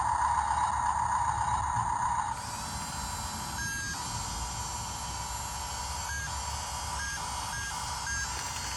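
Excavator running: a steady mechanical whine over a low rumble, louder for about the first two seconds and then easing. A few short beeps sound in the second half.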